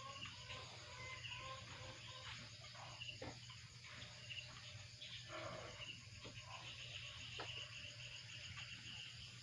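Faint pig-pen sounds: soft, scattered squeaks and grunts from newborn piglets and their sow, with small knocks and rustles, over faint high chirping.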